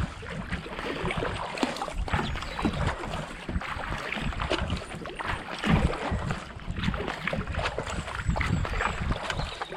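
Kayak paddle blades dipping and pulling through canal water in steady repeated strokes, with splashing and water rushing past the hull.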